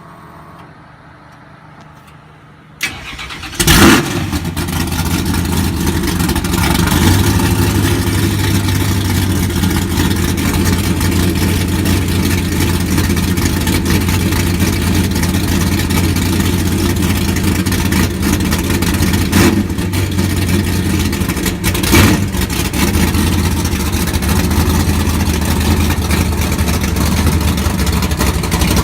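1969 Chevy drag truck's engine being cold-started: a click about three seconds in, brief cranking, and the engine fires loudly about a second later. It then runs steadily at idle, with two short blips of the throttle in the last third.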